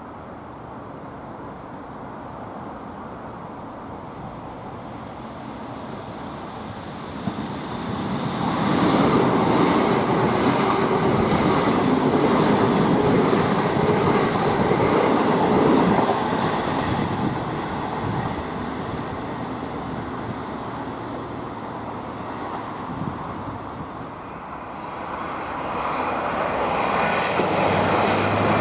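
A train passes by: the rail noise builds, holds loud for about ten seconds, then dies away, and a second rise in noise begins near the end.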